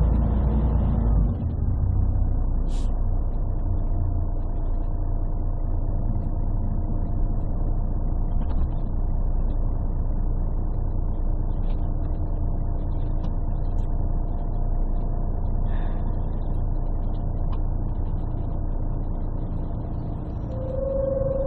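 Interior sound of a 1998 Scania CN113CLL city bus on the move: its Scania DSC 11 diesel and Voith D863.3 automatic gearbox running steadily, heard bass-heavy through a partly covered phone microphone. A louder low rumble in the first second or so, and a brief steady higher tone near the end.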